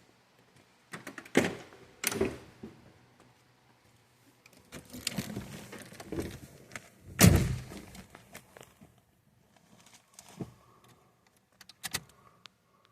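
Car door being handled before a cold start: a couple of knocks, some rustling, then one heavy door thunk about seven seconds in, followed by a few small clicks.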